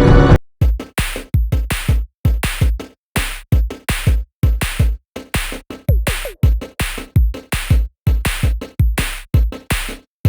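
Electronic background music with a punchy drum-machine beat: short, hard-hitting drum and bass hits in a choppy rhythm.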